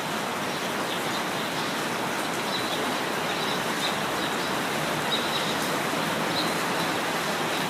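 Steady rain falling, with birds chirping now and then in short, high calls.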